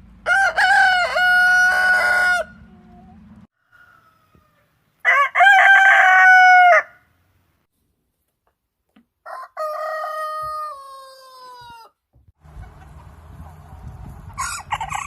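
Rooster crowing three times, each crow a long call of about two seconds, the third sliding down in pitch at its end, followed by a brief call near the end.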